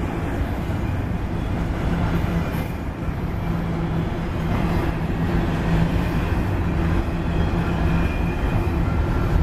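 Double-stack intermodal freight train rolling past close by: a steady rumble of steel wheels on rail, with a low steady hum underneath.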